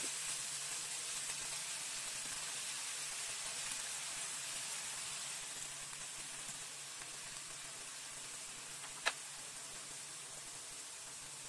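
Chicken feet sizzling in oil in a non-stick wok: a steady hiss that eases a little about halfway through, with one sharp click about nine seconds in.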